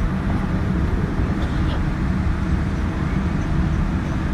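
Steady low rumble inside the cabin of a Boeing 787-9 airliner taxiing: engines at taxi power and the airframe rolling on the ground.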